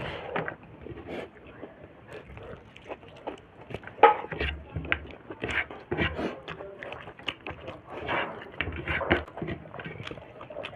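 Close-miked mouth sounds of someone eating snails and pork: irregular wet smacks, clicks and chewing, with a sharper click about four seconds in.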